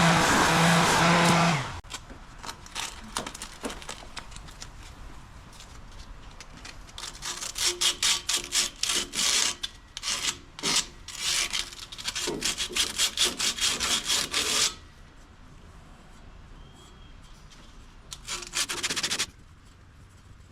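A motor hums steadily and cuts off about a second and a half in. Later come bursts of rapid back-and-forth strokes of metal being filed by hand, several strokes a second, with a shorter burst near the end.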